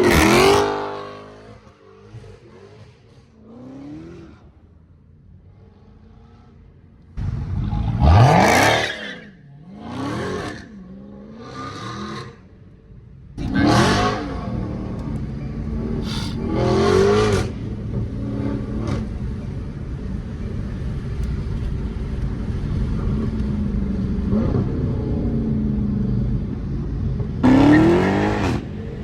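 Dodge Charger Hellcat Redeye's supercharged 6.2-litre V8, exhaust run with the mid mufflers deleted, revving in repeated short bursts that climb and drop back. Between the bursts it holds a steady low drone.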